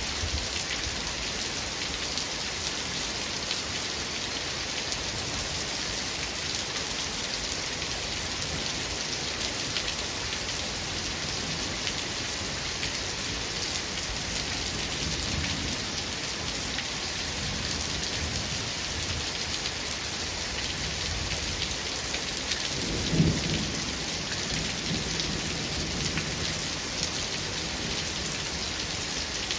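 Steady heavy rain hissing, with distant thunder rumbling low in the second half and one louder crack of thunder about two-thirds of the way through, trailing off in a rumble.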